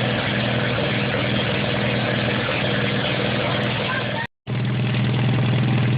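Allis-Chalmers B tractor's four-cylinder engine running steadily but missing on one cylinder, not yet running quite right after a rebuild. The sound cuts out briefly a little past four seconds in, then the engine carries on.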